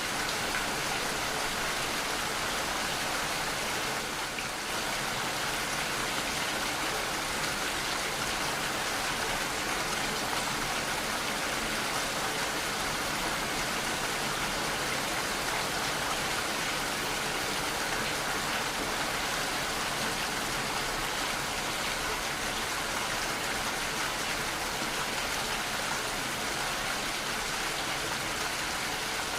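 Steady, even rainfall pattering on surfaces.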